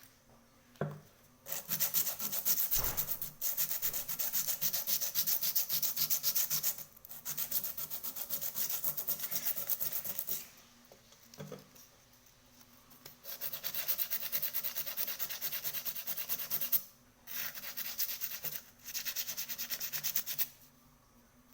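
Quick back-and-forth abrasive rubbing on a small metal cauldron under repair, in about six bursts of a few seconds each with short pauses between.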